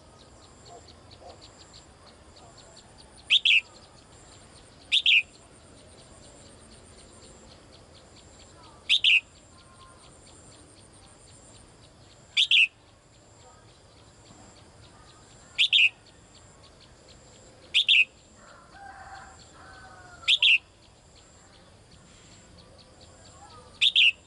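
Caged female songbird giving a short, sharp, high call, repeated eight times at intervals of two to four seconds: a contact call to a male. Softer chirps from other birds sound faintly between calls.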